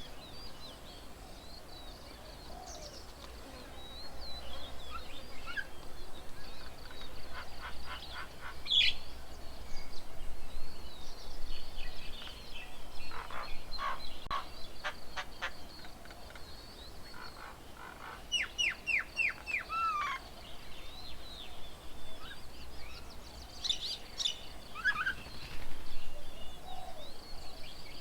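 Several birds calling, with scattered chirps and quick runs of repeated notes. About two-thirds of the way through comes a fast series of about six sharp falling notes. Underneath is a faint, steady, high-pitched hiss.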